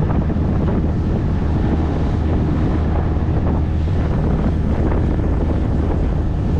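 Small motorboat underway with its engine running at a steady low drone, water rushing along the hull, and heavy wind buffeting the microphone.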